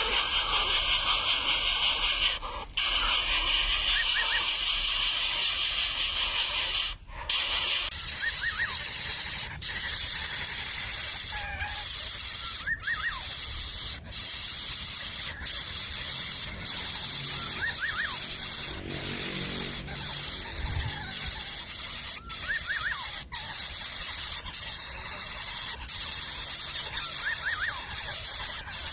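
A loud, steady, high-pitched hiss that drops out briefly every second or two, with small groups of faint short chirps now and then.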